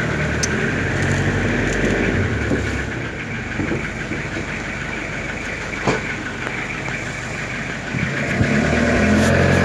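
An engine running at idle, its note growing louder and fuller near the end, over a steady high-pitched chirring.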